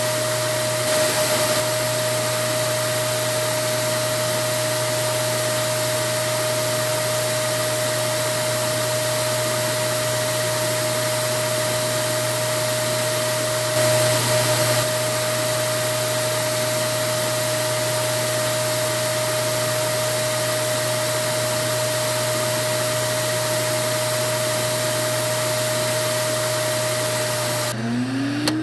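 Vacuum cleaner running steadily: a constant rush of air with a steady mid-pitched whine. Near the end the whine cuts out and a rising whine follows as the motor spins up again.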